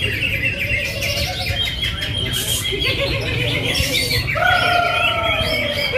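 Many caged songbirds singing at once at a bird-song contest, chiefly cucak hijau (greater green leafbirds), a dense mass of overlapping chirps and trills over a steady low rumble. From about four and a half seconds in, a louder, lower drawn-out sound with a slightly falling pitch rises above the chirping.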